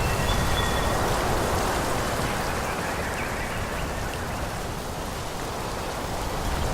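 Wind blowing through forest trees: a steady rushing of leaves with a low buffeting rumble, easing off in the middle and picking up again near the end. A few faint, short high whistles come near the start.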